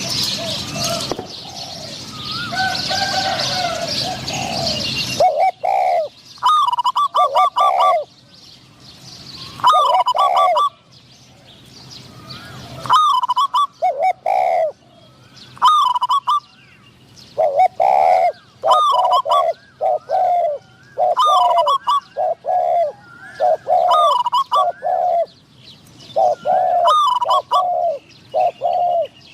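Spotted doves cooing: a string of short phrases of several notes each, repeated every second or two. For about the first five seconds a loud rushing noise covers the calls.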